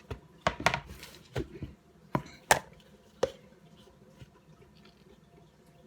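Kitchen items being handled on a counter: about eight sharp knocks and clacks in the first three seconds or so, as bowls and utensils are set out to start a batch of dough.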